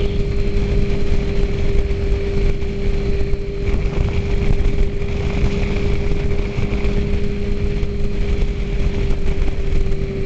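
Suzuki GSX-R sport bike's engine holding a steady note at cruising speed, under heavy wind buffeting on the microphone.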